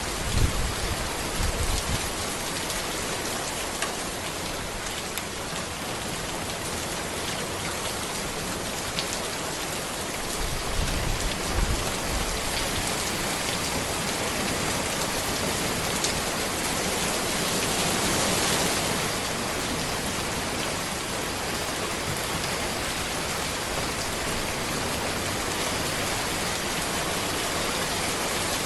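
Steady rain falling on a road, an even hiss of drops throughout, swelling slightly past the middle. Two short low rumbles break in, about half a second in and again around eleven seconds.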